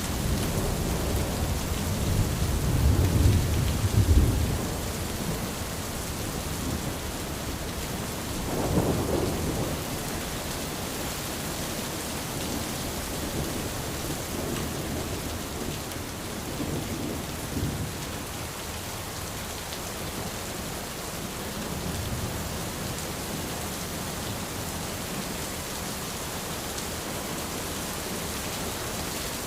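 Steady rain falling on an umbrella, with rolls of low thunder: the loudest over the first four seconds or so, a shorter one about nine seconds in, and fainter ones later.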